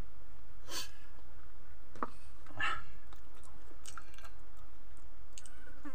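A man chewing soft boiled vegetables: a few faint, scattered mouth smacks and clicks over a steady low hum.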